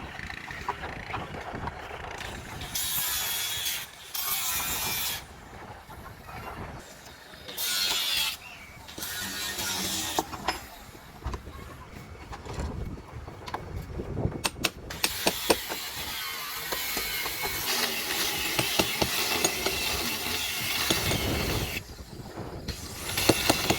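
Tool work on a wooden boat: several short bursts of hissing, scraping noise, then a longer stretch of it mixed with many quick clicks and knocks.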